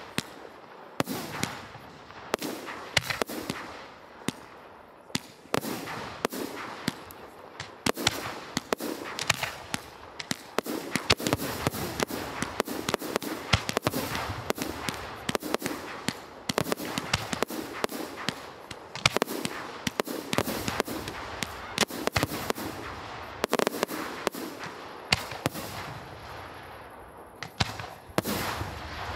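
Aerial firework shells of 75 to 150 mm bursting in quick succession: sharp bangs, several a second, with crackling in between, easing briefly shortly before the end.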